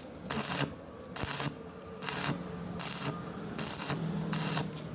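Stick welding with an E6013 rod on thin metal, the arc crackling on in short bursts about every half second to second, about seven times, over a steady low hum.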